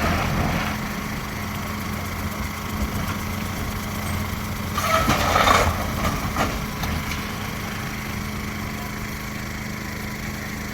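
An engine idling steadily, with a louder stretch of mechanical noise about five seconds in.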